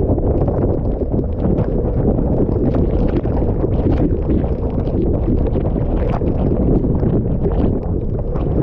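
Typhoon eyewall wind buffeting the microphone in a loud, continuous low rumble. Many sharp spatters of wind-driven rain and spray hit throughout.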